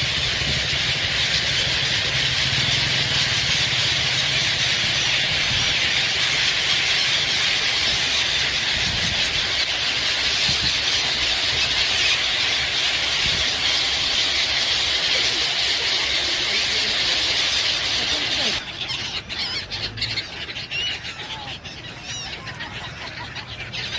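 A dense, steady din of a large flock of birds calling and screeching over a low hum. It cuts off suddenly about three-quarters of the way through, leaving scattered single bird calls.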